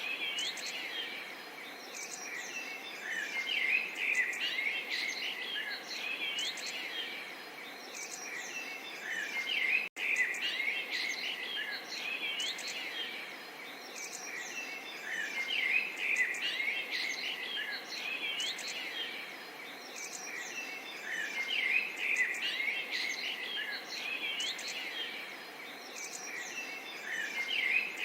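Many small songbirds chirping and trilling over a soft, steady murmur of water. The sound cuts out for an instant about ten seconds in.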